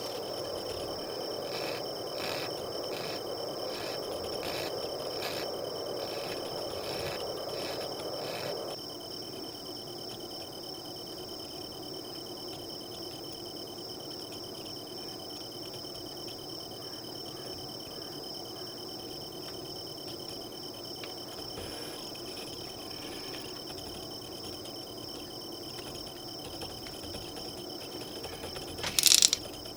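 Crickets trilling steadily in two high, unbroken tones. For the first nine seconds or so a quicker pulsing call and a low hiss join them, then stop. A short loud noise comes near the end.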